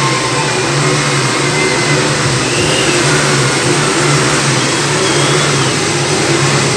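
Three motorcycles running together inside a steel globe of death, their engines held at a steady high speed with a continuous, slightly wavering drone.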